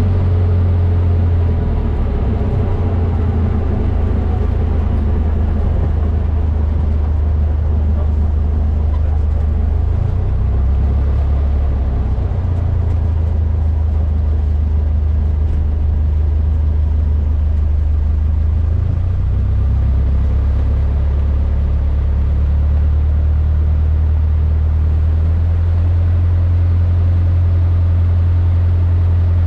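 Cessna 152's four-cylinder Lycoming piston engine and propeller droning steadily, heard inside the cockpit; the low drone shifts in pitch a few times as the engine speed changes.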